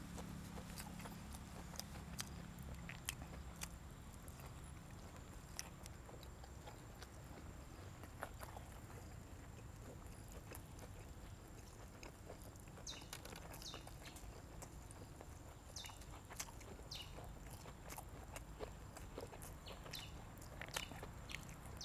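Close-up chewing and biting: irregular, faint wet clicks and crunches of a mouth eating, growing more frequent in the second half.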